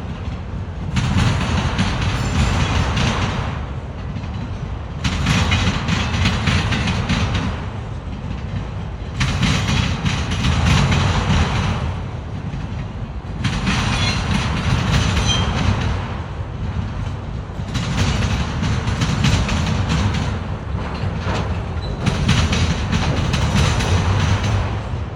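CSX freight train's cars rolling slowly past: a steady low rumble with a swell of wheel-on-rail noise about every four seconds as each car goes by.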